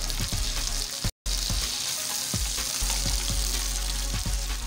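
Boneless chicken pieces sizzling steadily in hot vegetable oil in a metal frying pan, with a slotted spatula knocking and scraping against the pan as the pieces are lifted out. The sound cuts out for a moment about a second in.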